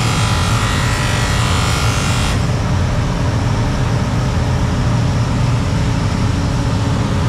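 A steady, loud low mechanical rumble, with a hissing noise over it that cuts off suddenly about two seconds in.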